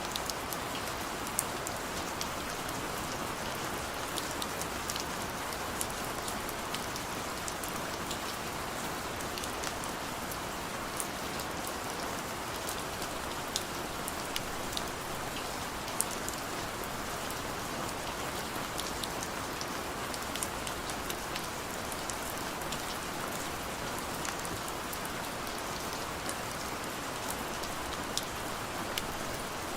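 Heavy rain falling steadily: an even hiss with many sharp drop ticks scattered through it.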